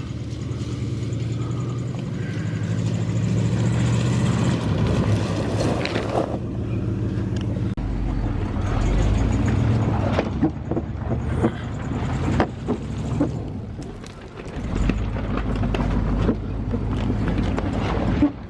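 Old truck engine revving under load while driving off-road. Its pitch climbs in the first few seconds, and repeated knocks and clunks come from the truck bouncing over rough ground in the second half.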